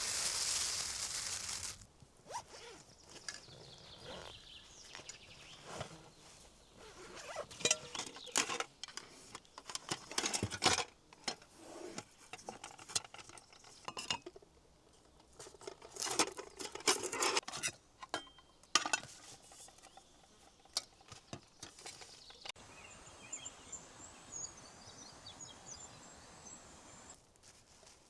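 Camp gear being handled: scattered clinks, clicks and rustling in irregular clusters, after a short loud hissing rush in the first two seconds.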